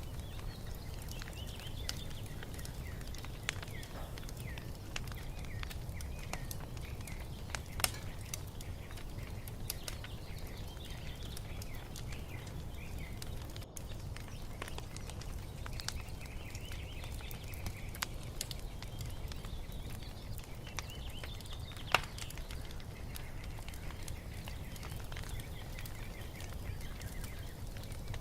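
Wood fire crackling over a steady low rumble, with scattered sharp pops, the loudest about eight seconds in and again near twenty-two seconds. Small birds chirp throughout.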